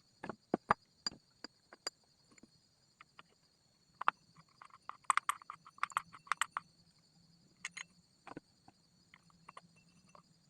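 Scattered sharp clicks and light metallic knocks from engine parts and tools being handled during assembly, with a cluster of quicker clinks a few seconds in, over a faint steady high-pitched whine. The engine is not running.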